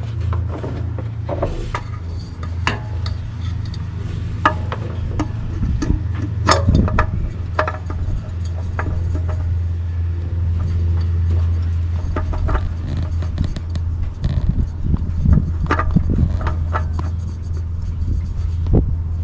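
Scattered clicks, knocks and scrapes of hand work as a new spin-on oil filter is fitted and tightened, over a steady low hum.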